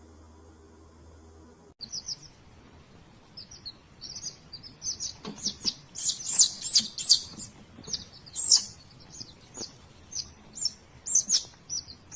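Small birds chirping in rapid runs of short, high-pitched notes. The chirps start about two seconds in, after a faint low hum, and are busiest and loudest in the middle.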